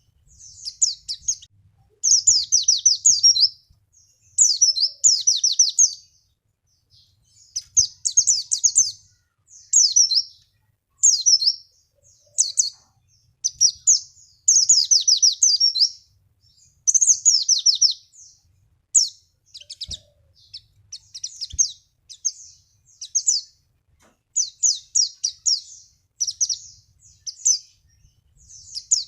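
White-eye (pleci) singing: rapid, high chattering phrases of a second or two each, repeated with short pauses. It is a lure song meant to prompt other white-eyes to answer and sing.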